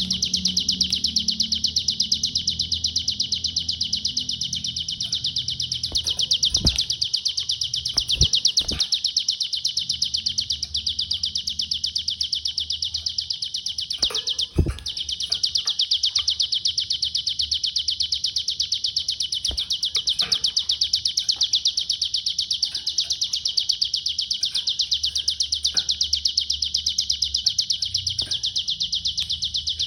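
Ciblek gunung singing a nonstop, very rapid high-pitched chattering trill, the 'konslet' song style prized by Indonesian bird keepers. A few short knocks sound around 7, 8 and 15 seconds in.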